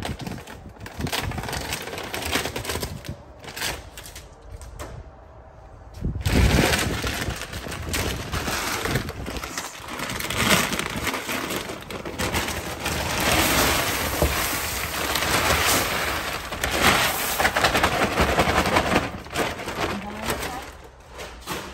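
A paper bag of bird seed crackling and rustling as it is torn open and handled, then bird seed poured into a storage bin: a dense, rattling hiss of running seed that starts about six seconds in and lasts about fifteen seconds.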